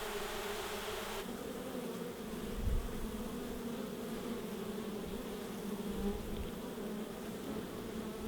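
A rescued honeybee colony buzzing steadily in its hive box, a dense hum of many bees. A soft low thump comes about two and a half seconds in.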